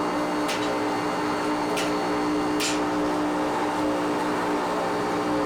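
Machinery running with a steady hum, broken by three short hissing bursts in the first three seconds.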